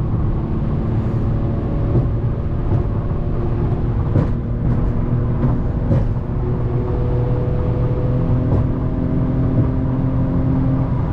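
Infiniti G37 sedan's 3.7-litre VQ V6 with a muffler delete pulling at highway speed, a loud steady drone whose pitch creeps slowly upward as it gains speed. A few short sharp knocks sound over it.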